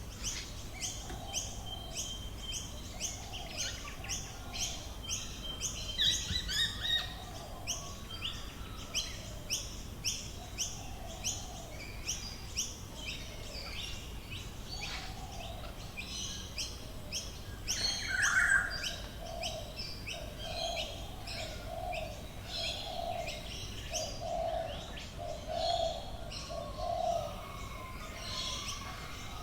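Several wild birds calling in the Australian bush: a high note repeated about twice a second through the first half, other chirps scattered over it, and near the end a run of low cooing notes, evenly spaced.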